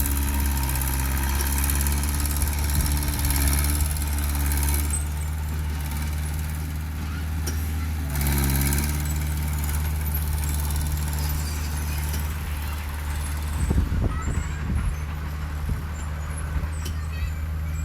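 Heavy diesel engine of earthmoving machinery running steadily under load. Its pitch shifts briefly about half a second in and again about eight seconds in, and knocks and clatter come in near the end.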